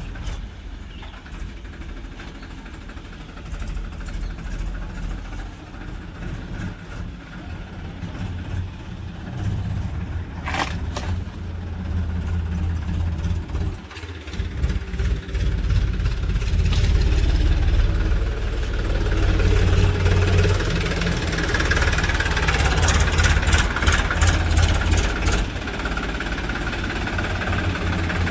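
Diesel engines of tractors and a loading machine running steadily, the rumble growing louder about halfway through. There is a brief sharp sound near the middle, and rattling clicks come late on.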